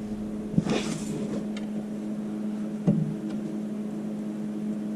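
An engine idling steadily, with two sharp metal knocks, one about half a second in and one near three seconds, and a brief scraping rush just after the first knock, from a pry bar working the track frame loose.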